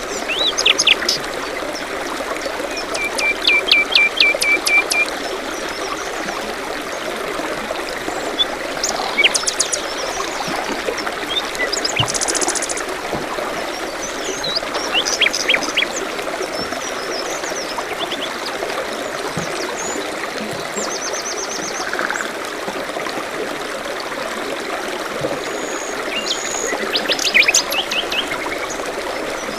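Steady trickling of a small stream, with songbirds chirping over it: several short runs of quick, high, falling notes and a few brief whistles, heard at intervals.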